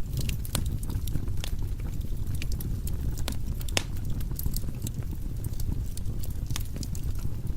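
Wood fire burning in a fireplace: a steady low rumble of flames with irregular crackles and sharp pops from the burning logs, a few louder pops standing out.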